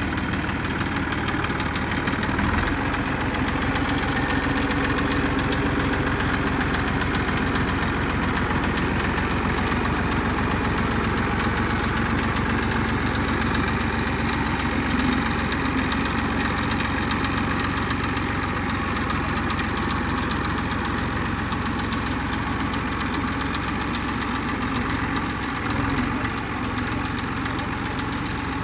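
Tractor engine running steadily at a constant speed, with a slight change near the start and again near the end.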